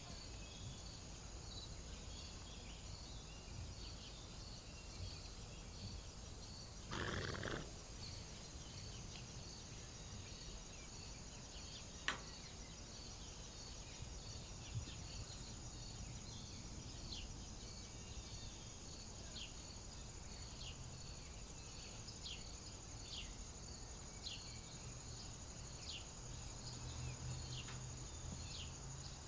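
Outdoor ambience of steady, high-pitched insect buzzing with short chirps repeating about once a second. There is a brief rushing burst about seven seconds in and a single sharp click near twelve seconds.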